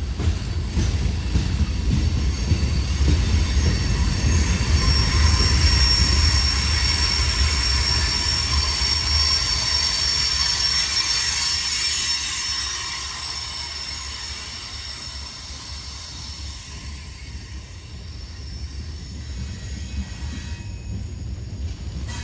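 Freight train cars rolling past with a low rumble and a high, steady wheel squeal. Both are loudest in the first half, then the sound fades away.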